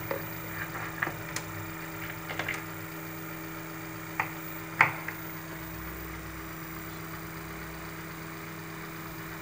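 Microtek inverter humming steadily while charging its battery from the mains, with a few light clicks and taps, the loudest about five seconds in, as multimeter probes are handled.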